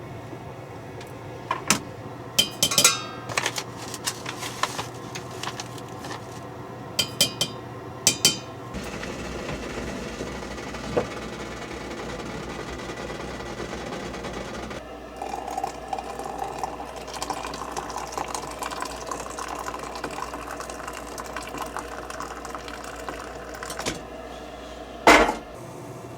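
Dishes and utensils clinking, a run of sharp clinks over the first eight seconds. Then a steady low hum sets in, with a faint crackling from about halfway and one loud knock near the end.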